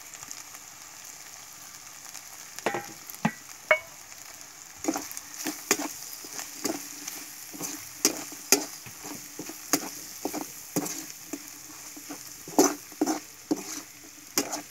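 Chinthamani chicken (chicken pieces, shallots and crushed red chili in coconut oil) frying dry and sizzling in a pan. A spoon stirs it, scraping and knocking against the pan in repeated strokes from about five seconds in.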